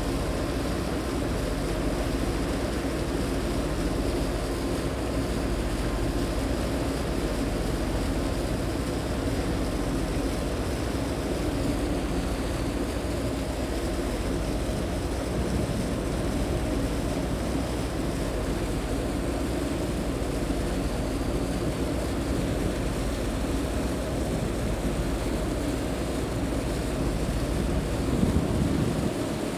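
High-speed passenger boat under way: a steady engine drone with a constant hum, over the rush of wind and water passing the hull. A brief louder low rush near the end.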